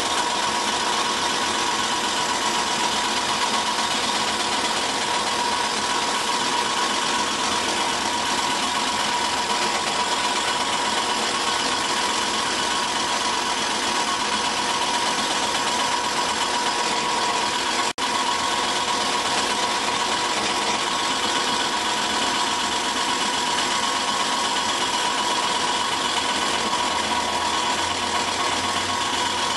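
1991 Ford Crown Victoria's V8 idling steadily, with a constant whine-like noise from the engine cooling fan rubbing on its shroud. The car sits raised on stands, so the front end sags just enough to close the gap between the fan and the shroud.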